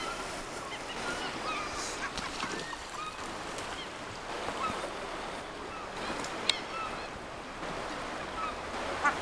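A flock of gulls calling, many short squawks overlapping, over the steady rush of the river. A single sharp click sounds about six and a half seconds in.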